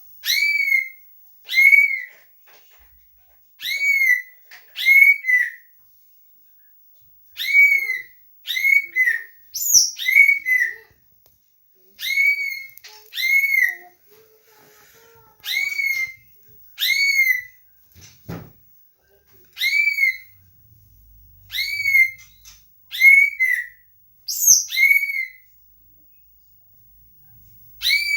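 A green leafbird (cucak ijo) calling: one loud, clear whistled note that rises and falls, repeated about once a second, often in pairs, with short pauses between runs.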